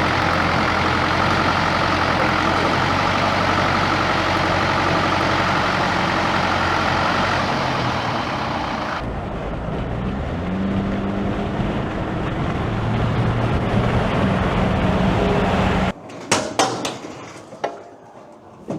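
Güldner G45 tractor's diesel engine running steadily; its pitch shifts somewhat partway through. It cuts off suddenly near the end, followed by a few sharp clicks.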